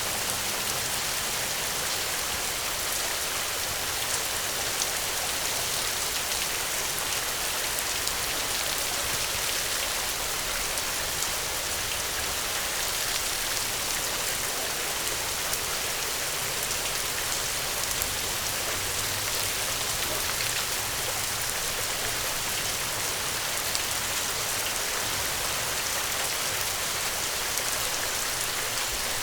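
Steady heavy rain, a dense even hiss with scattered small ticks of drops.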